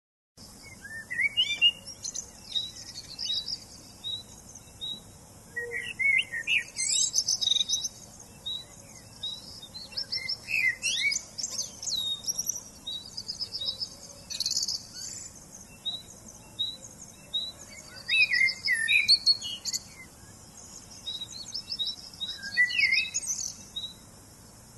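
Birds chirping and singing: a steady run of short repeated notes under busier chirps and high trills.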